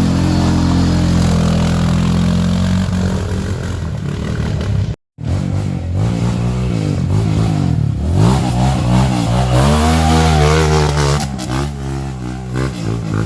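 Off-road trail motorcycle engines revving, their pitch repeatedly rising and falling, with a sudden break of a fraction of a second about five seconds in.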